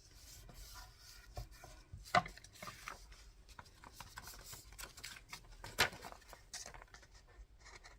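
Paper being glued and handled on a tabletop: soft rubbing with scattered light taps, and two sharper knocks, one about two seconds in and one near six seconds.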